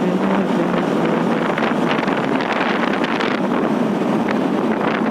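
Steady wind rush over the microphone while riding a Bajaj Pulsar RS 200 at highway speed, with its single-cylinder engine running underneath.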